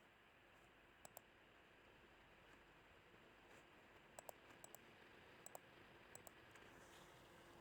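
Faint computer mouse clicks over near silence, several coming in quick pairs like double-clicks.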